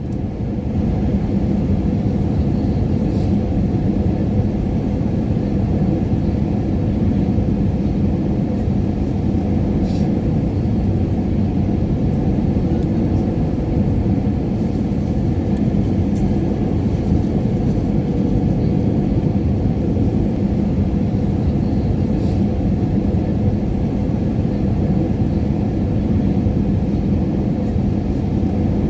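Airliner cabin noise in flight: a steady low rumble of engines and airflow with a faint droning hum, fading in at the start.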